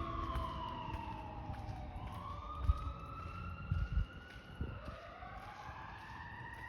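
Emergency-vehicle sirens wailing: two or more slow rising-and-falling tones overlapping, one sweeping down in the first two seconds and others climbing again from about two and four and a half seconds in, over a low rumble.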